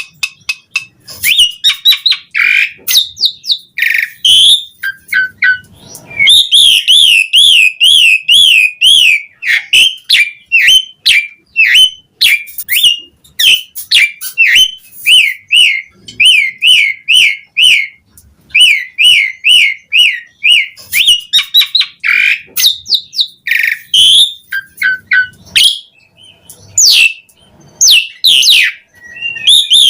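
Asian pied starling (jalak suren) singing a long, varied song: runs of fast warbling trills, whistled notes and sharp clicking calls, loud and nearly without pause.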